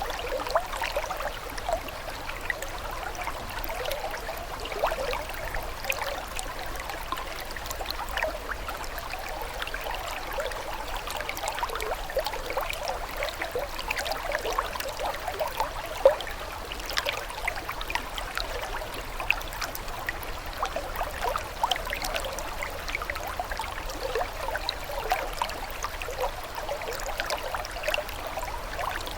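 Running water trickling and babbling steadily, like a small stream, full of quick little bubbling gurgles.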